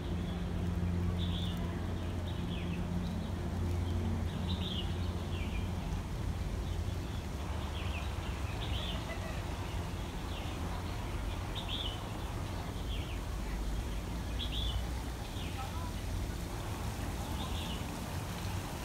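Small birds chirping in short, high calls every second or so, over a steady low hum.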